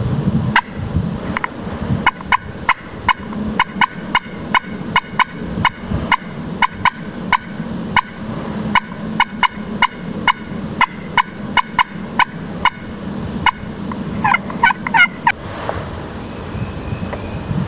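Turkey yelping: a long run of short, sharp yelps at about two a second, with a quicker cluster of higher notes near the end.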